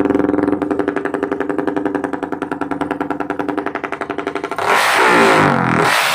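Motorcycle engine through an XR-37 twin-silencer aftermarket exhaust, freshly repacked with new glass wool, idling with an even pulsing beat. About four and a half seconds in, a quick throttle blip: the revs rise and fall back to idle.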